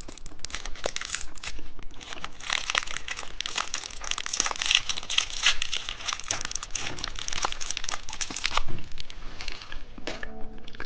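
Plastic candy packaging crinkling and rustling in irregular bursts as it is handled and opened. The sound thins out near the end.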